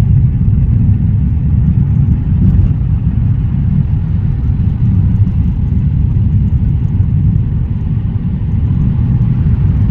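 Car in motion heard from inside the cabin: a steady, loud, low road-and-engine rumble.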